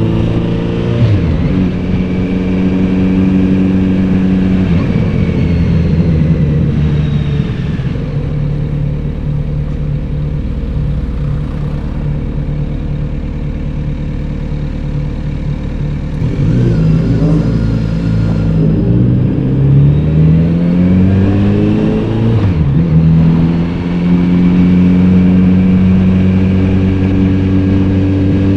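Kawasaki Z900RS inline-four engine and exhaust under way: steady cruising, the engine note falling as it slows near the middle, then rising revs from about two-thirds of the way through, a brief dip at a gear change and a steady pace again near the end.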